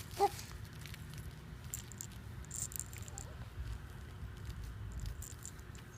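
Faint rustling and handling noise with scattered small clicks, and a short vocal squeak about a quarter of a second in.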